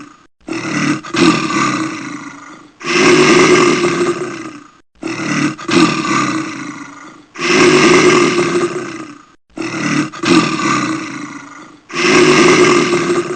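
Bear roaring over and over: six roars, each about two seconds long with short breaks between, alternating louder and softer, like a repeated sound-effect loop.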